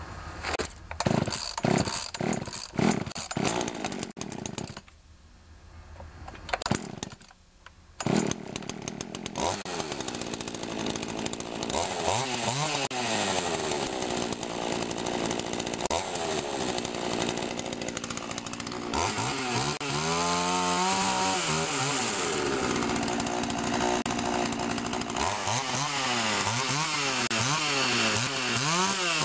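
Pioneer Partner P500 50cc two-stroke chainsaw being pull-started: a run of quick cord pulls, a short lull, then the engine catches about eight seconds in. It then runs and is revved up and down several times.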